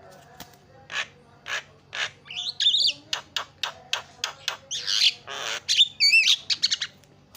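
Javan myna (jalak kebo) singing a chattering song: a rapid run of short, sharp notes, twice broken by whistled notes that bend up and down, and a harsh, raspy squawk about five seconds in.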